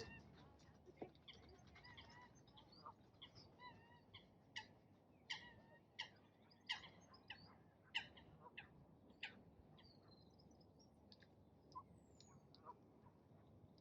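Birds giving short chirps and calls, irregular sharp notes every half second to a second, faint over a low background hush.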